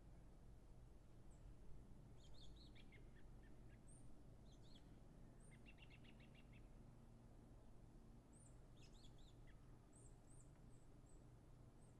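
Near silence: faint high chirps of small birds, with a short rapid trill about midway, over a low steady hum.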